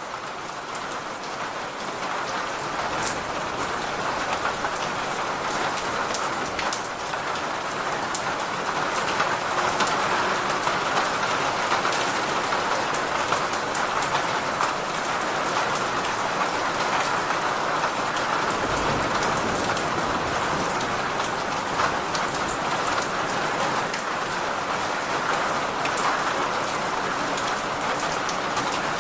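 Steady heavy rain, a dense even hiss of drops, fading up over the first several seconds and then holding level.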